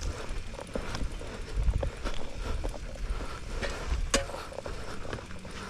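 Bicycle moving over a rough trail: low wind rumble on the microphone with scattered rattles and clicks, one sharper click about four seconds in.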